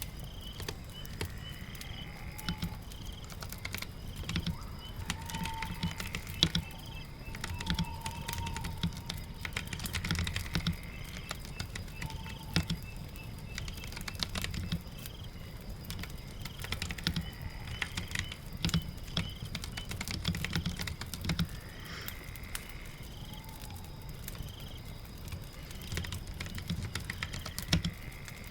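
Computer keyboard typing in irregular runs of clicks, over a steady patter of rain. Faint, high, repeated chirping calls run through the background.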